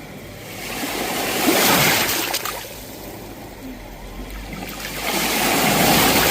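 Sea waves breaking on the shore: two waves swell up and wash in, one about a second and a half in and another near the end, each fading back to a hiss between.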